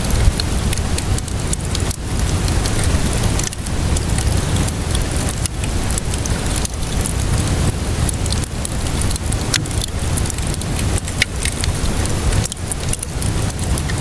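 Wood fire crackling with frequent sharp pops and snaps over a steady hiss of rainfall and a deep low rumble.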